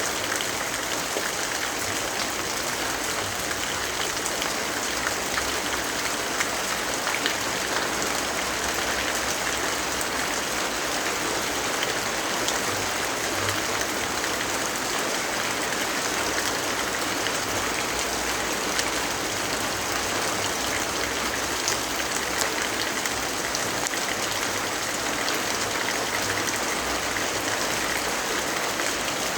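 Steady rainfall: an even hiss with many small drop ticks scattered through it.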